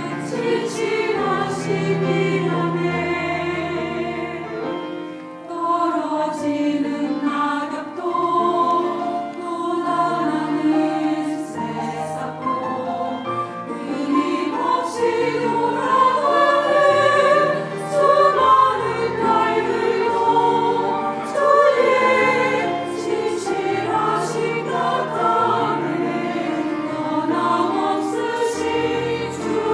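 Church choir singing an anthem in several parts, voices with vibrato over sustained low notes.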